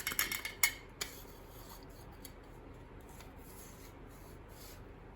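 A quick run of light clicks and scrapes in the first second, then faint rustling: small objects being handled and checked over by hand.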